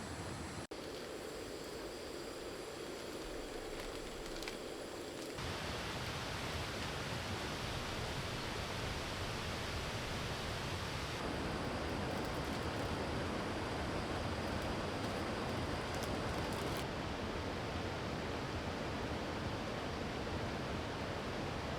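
Steady rushing outdoor noise with no distinct events, changing character abruptly three times, as at cuts between clips.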